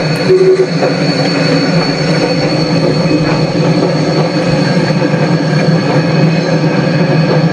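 A heritage railway train running steadily: a continuous rumble with a thin, steady high whine above it.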